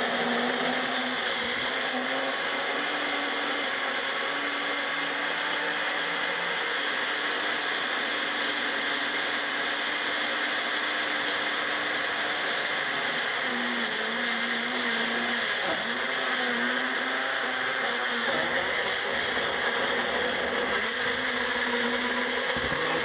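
Magic Bullet personal blender running steadily, its motor tone wavering slightly as it churns a thick, tightly packed cup of fruit and vegetables.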